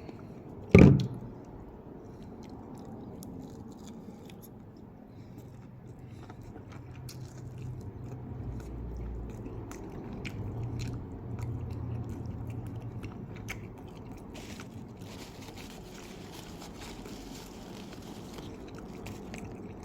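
Close-up chewing and biting on crispy air-fried chicken wings, with small crunches and clicks throughout. A single sudden loud bump comes about a second in.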